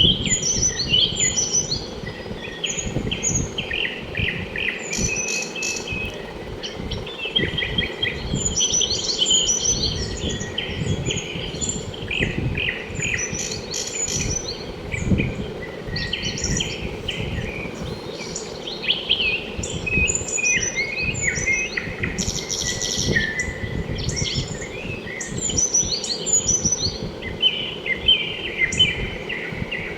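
Many small birds chirping and twittering at once, short overlapping high calls with no pause, over a steady low rumble.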